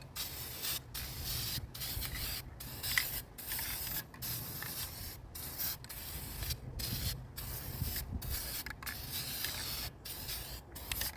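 Aerosol spray-paint can spraying in about a dozen short hissing bursts, with brief breaks between them.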